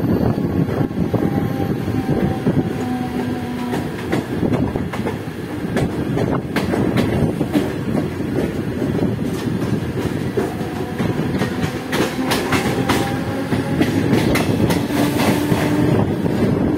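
Mumbai suburban electric local train running, heard from the open doorway of a moving coach: a steady rumble of steel wheels on rail with clickety-clack over rail joints. The clacks come in bunches about a third of the way in and again through the second half.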